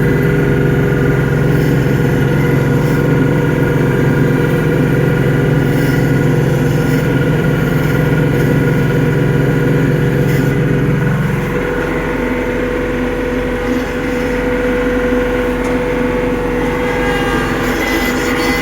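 TYM 394HC diesel tractor running at raised RPM with its PTO driving a rear three-point snowblower, spinning without snow. About eleven seconds in the deeper part of the sound drops away and it gets a little quieter, though the machine keeps running.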